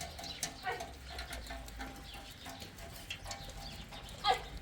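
Scattered short animal calls over a low steady background, the loudest a single falling call about four seconds in.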